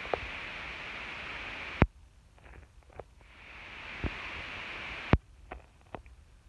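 Steady airy rush of a ceiling fan's moving air, broken off twice by a sharp click, the second time after it builds back up; a few softer clicks and knocks fall in between and near the end.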